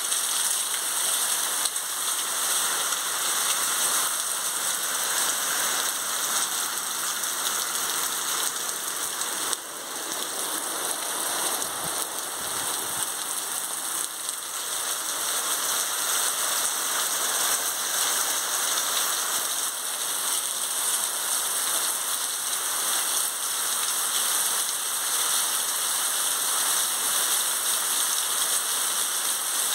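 Heavy rain falling steadily on a concrete yard and surrounding plants, a dense, even hiss of drops with no pauses.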